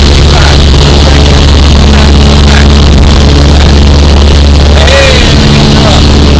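Cessna 172's piston engine and propeller droning steadily in the cabin, loud enough to overload the recording.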